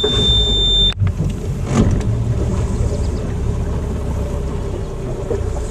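Boat's outboard motor running steadily with a low rumble. A high steady beep sounds for about the first second and cuts off abruptly.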